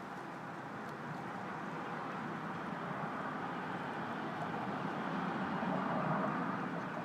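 Steady outdoor background rumble with no distinct calls, swelling slightly a few seconds in.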